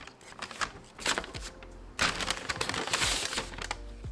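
Brown paper takeout bag crinkling and rustling as it is handled and lifted away from the food, in irregular bursts, loudest about two to three seconds in.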